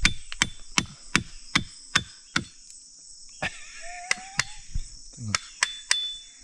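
Repeated sharp chopping knocks, a hard shell being struck open to get at the grub inside. The knocks come about two and a half a second, pause briefly about two and a half seconds in, then resume more irregularly. A steady high insect chorus runs underneath.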